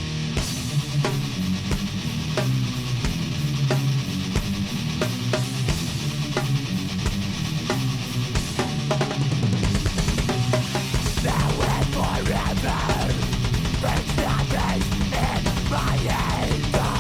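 Instrumental heavy metal passage with distorted guitars and drum kit; about ten seconds in the drummer switches to fast, even double-bass kick drumming.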